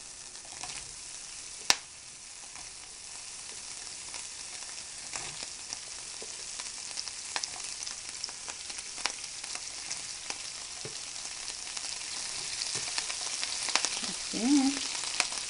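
Diced sausage frying in rendered bacon fat in a skillet: a steady sizzle with small crackles and spits, slowly growing louder. A single sharp click sounds about two seconds in.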